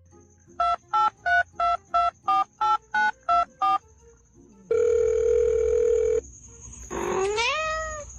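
Telephone keypad dialing tones: about ten quick two-tone beeps in a row, followed by a steady tone for about a second and a half. Near the end a short pitched vocal sound rises.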